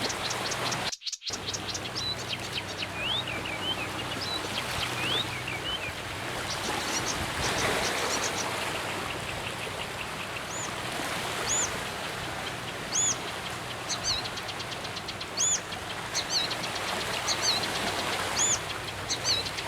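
Several wild birds calling and singing over a steady hiss of outdoor background noise: rapid runs of high chirps, quick upslurred whistles, and a repeated short arched high note about once a second in the later part. The sound cuts out briefly about a second in.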